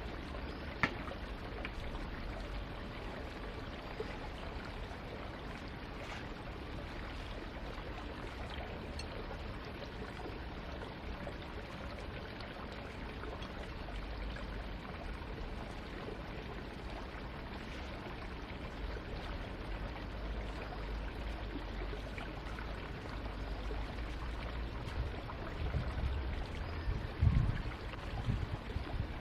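Steady running water, an even pouring or flowing rush, with a sharp click about a second in and a few low thumps near the end.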